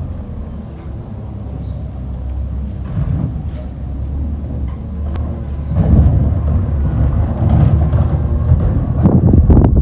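Garbage truck engine running with a low rumble that grows louder about six seconds in.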